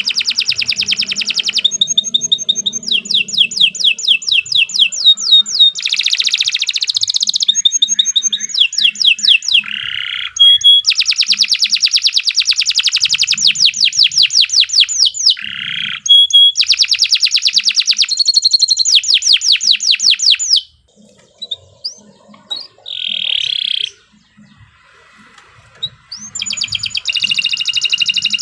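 Domestic canary singing a long, continuous song of fast trilled phrases, each a rapid run of the same high note repeated many times a second, the phrases changing pitch one after another. There is a brief break about three quarters of the way through, broken by a short lower note, before the trills resume near the end.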